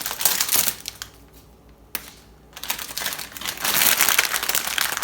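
Crinkling plastic packaging of a blind-box mini figure being handled and opened, the figure sitting in a little plastic insert. The crinkling stops about a second in and starts again near the three-second mark.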